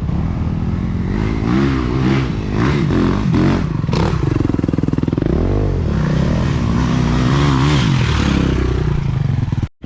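Dirt bike engine revving up and down over and over as it is ridden along a trail, with a sharp knock about four seconds in.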